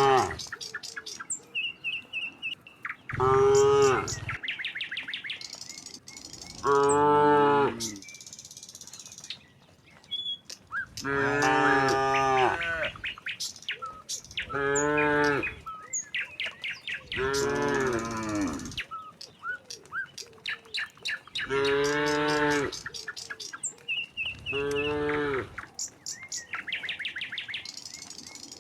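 Cattle mooing over and over, about seven long calls one after another, some rising and then falling in pitch. Small birds chirp in quick, high runs between the moos.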